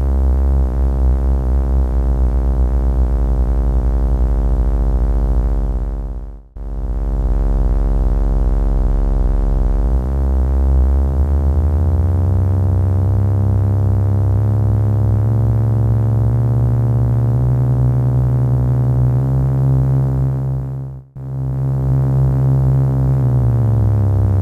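Sampled Korg Monotron analog synth played as a layered instrument: a held buzzy note with a steady wobble, retriggered twice. Its low sub layer steps up in pitch and back down while held, as that sample is detuned against the other.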